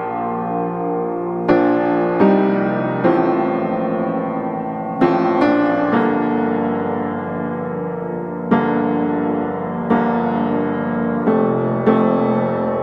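Slow, soft piano music: sustained chords struck every second or two, each ringing on and fading.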